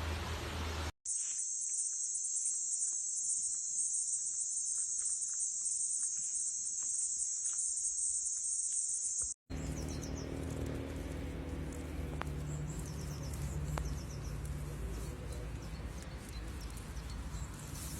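A steady, high-pitched insect chorus drones without a break for about eight seconds, then cuts off abruptly. It gives way to quieter outdoor ambience with a low hum and a few faint ticks.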